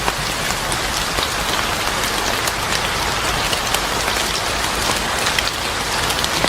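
Steady rain falling on a hard surface, a constant hiss with many small, sharp drop impacts ticking through it.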